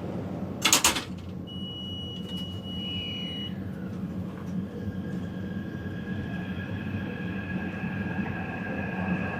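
Taipei Metro train at a station. Under the steady rumble there is a short loud hiss about a second in, then a steady electronic tone for about two seconds, typical of a door-closing warning. A few seconds in, the traction motors start to whine, the pitch rising slowly as the train pulls away.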